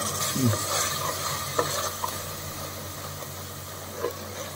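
Onion-tomato masala sizzling in a pressure cooker as a ground coriander-mint paste is stirred in with a spoon, with a few light taps of the spoon against the pot.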